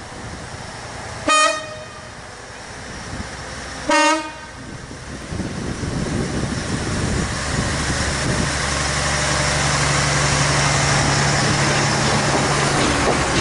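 Network Rail multi-purpose vehicle DR 98217 (a Windhoff MPV) sounds two short horn toots, the first higher than the second. Its diesel engine then runs up and the wheel and rail noise builds steadily as the train pulls away, with a steady low engine hum in the later seconds.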